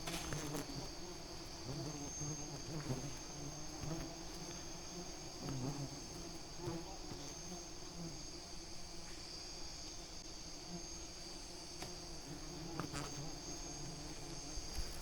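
Wild bees buzzing as a swarm, a low wavering hum, over a steady high-pitched insect trill.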